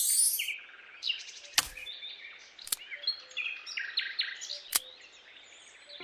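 Birds chirping and calling in quick short notes, over a faint steady background. A short burst of hiss opens it, and three sharp clicks come spaced about a second apart.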